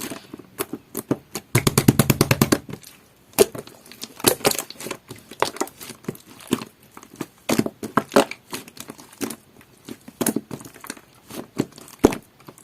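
Jelly-textured slime squeezed and worked by hand, giving irregular sticky clicks and pops, with a quick run of rapid clicks about two seconds in.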